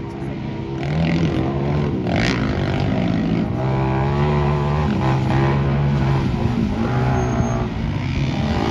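Motocross dirt bike engines revving hard, pitch rising and falling as the riders work the throttle.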